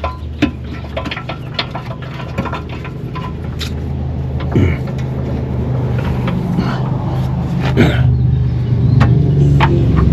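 A motor vehicle's engine running with a steady low hum that grows gradually louder, mixed with scattered light metallic clicks of tools and bolts.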